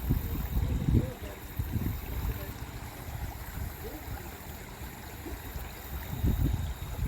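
Creek water running steadily, with low gusts of wind rumbling on the microphone now and then.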